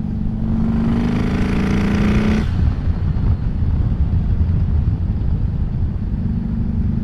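Turbocharged Harley-Davidson 107 V-twin motorcycle engine pulling hard under acceleration, its note rising for about two and a half seconds. The throttle then shuts off abruptly, leaving a lower rumble, and the engine settles into a steady note again near the end.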